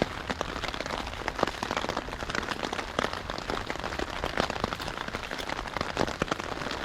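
Heavy steady rain falling on a tarp shelter, many separate drop strikes heard close overhead.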